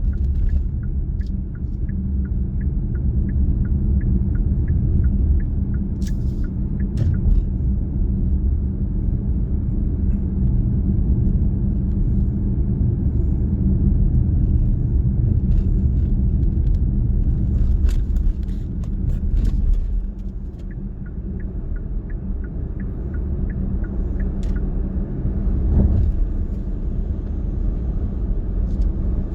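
Steady road and engine rumble of a car driving at speed, heard from inside the cabin. A faint rapid ticking runs through the first several seconds, and the rumble drops somewhat about twenty seconds in.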